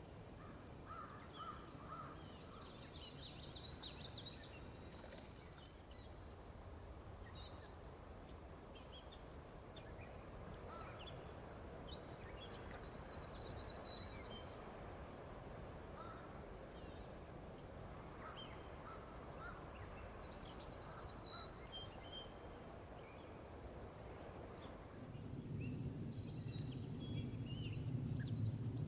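Faint outdoor ambience with scattered short bird chirps and calls. About 25 s in, a low steady rumble comes in and becomes the loudest sound.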